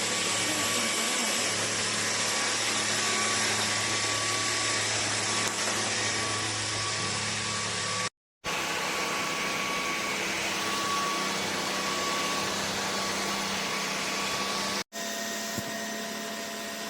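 LEVOIT cordless stick vacuum running steadily: a constant rushing hiss with a thin motor whine. It cuts out abruptly twice, for a fraction of a second, about eight seconds in and near the end.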